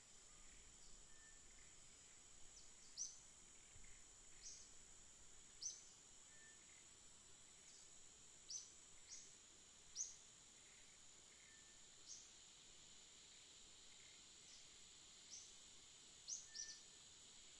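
Faint songbirds chirping: scattered short, high, quick downward-sweeping chirps at irregular intervals, with an occasional lower short note, over a steady high-pitched hiss.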